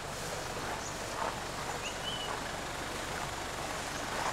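Steady outdoor background noise, with a short bird whistle that rises and then holds about two seconds in.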